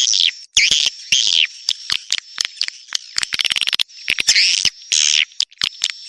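Swiftlet call lure recording: repeated bright twittering chirps of edible-nest swiftlets mixed with trains of rapid sharp clicks, over a thin steady high whistle. This is the kind of call sound played from swiftlet houses to draw the birds in to roost and nest.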